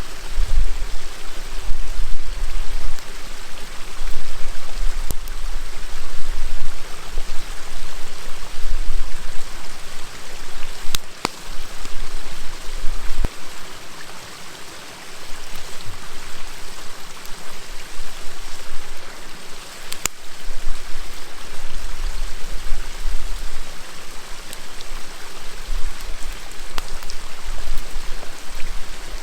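River water flowing steadily, with a few sharp pops from a crackling wood fire and low rumbles that swell and fade at intervals.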